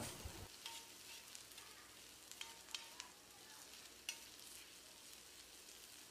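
Chopped onion and tomato frying faintly on a dosa tawa, a soft sizzle broken by a few sharp clicks and scrapes of a spatula stirring them on the griddle.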